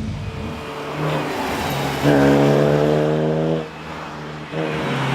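Alfa Romeo 147 rally car's engine running hard at a nearly steady pitch, then briefly dropping off for under a second before pulling again near the end, as in a lift or gear change.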